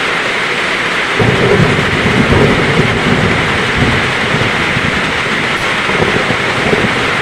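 Heavy rain pouring steadily, with a low roll of thunder that starts suddenly about a second in and rumbles away over the next few seconds.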